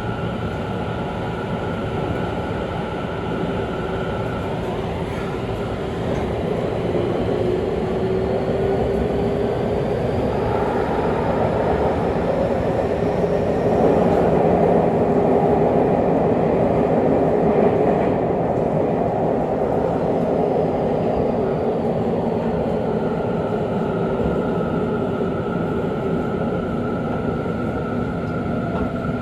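Running sound of a Tobu 50000 series electric train on an underground line, decelerating into a station: steady wheel and track rumble that is loudest about halfway through, then eases, with a faint motor whine falling in pitch near the end.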